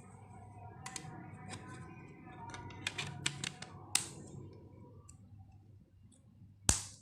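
Small plastic clicks and taps from handling the Tecno Pop 3 phone, a handful clustered in the middle, then one loud sharp snap near the end.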